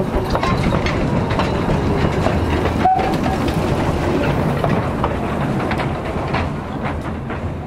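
A small railway train running close by out of sight on the track, getting gradually quieter near the end.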